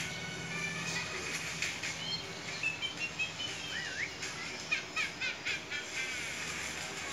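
Small birds chirping in short, quick up-and-down notes, with a fast run of chirps near the end, over faint background music.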